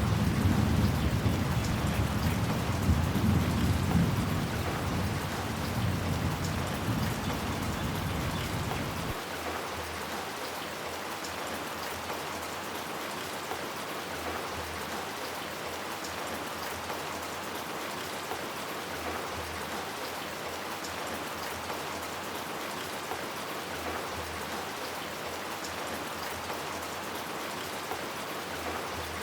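Steady heavy rain falling, with a deep thunder rumble that fades over the first nine seconds and then stops abruptly, leaving the rain alone.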